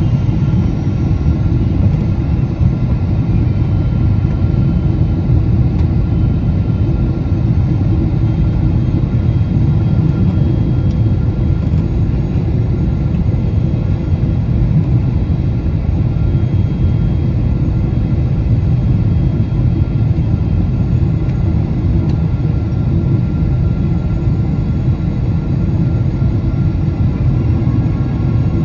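Steady rumble of a Boeing 777-200 airliner in flight, heard from inside the cabin: engine and airflow noise, with faint steady whining tones above it.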